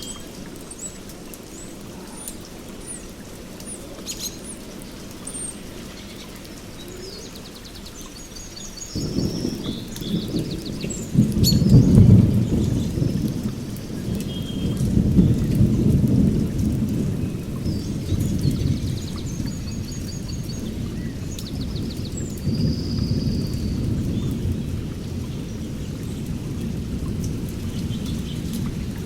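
Small birds chirping and trilling, joined about nine seconds in by a low rumble of thunder that swells to its loudest a few seconds later and rolls on under the birdsong.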